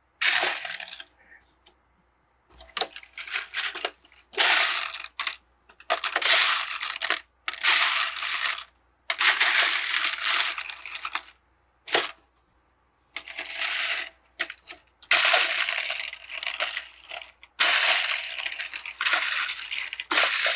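Small plastic Lego pieces clattering as a hand sifts through them in search of one piece, in rattling bursts of a second or two with brief pauses between.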